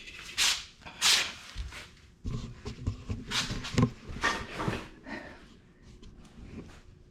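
Handling noises while working on a mini bike's brake: a run of irregular knocks, clinks and rubbing of metal parts, busiest in the middle and dying away near the end.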